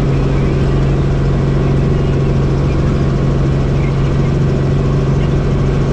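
Helicopter noise heard from inside the cabin: a loud, steady drone with one strong, constant low hum.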